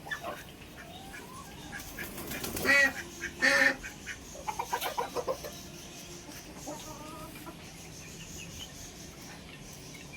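Farmyard poultry calling: two loud, harsh calls about a second apart, then a quick run of short clucking notes, with softer calls later.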